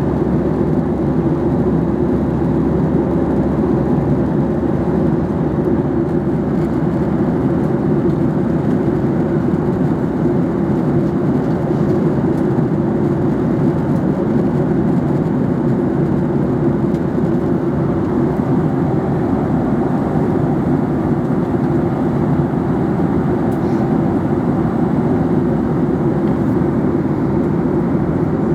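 Airliner cabin noise in flight: the steady, unchanging rush of the jet engines and airflow, heard from inside the cabin.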